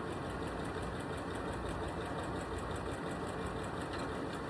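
Janome Skyline S3 sewing machine running steadily, stitching with an even rapid rhythm.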